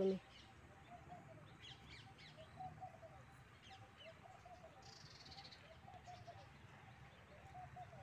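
Birds calling faintly: a short mid-pitched call repeated about once a second, with scattered high chirps and a brief buzzy call about five seconds in.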